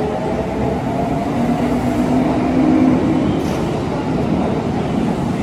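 Kintetsu electric commuter train running past along an underground station platform: steady rumble of wheels on rail with the whine of the traction motors, which rises in pitch about two seconds in.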